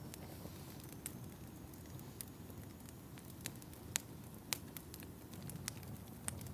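Fireplace wood fire crackling: irregular sharp pops and snaps, about half a dozen louder ones, over a soft low rumble of burning.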